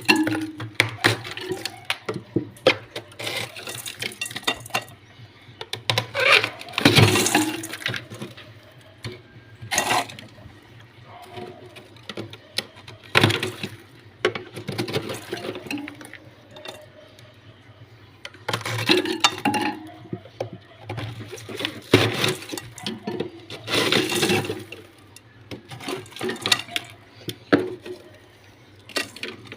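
Intermittent clinks and knocks of glass shelves and containers, mixed with splashing and running water, as a refrigerator is emptied and washed.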